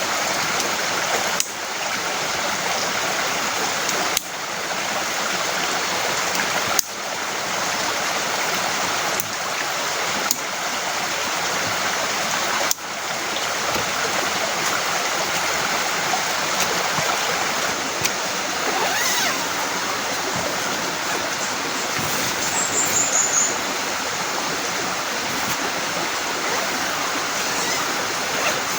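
Heavy rain falling in a steady, dense hiss, with a few sudden brief dips in level in the first half. A short run of high chirps comes about two-thirds of the way through.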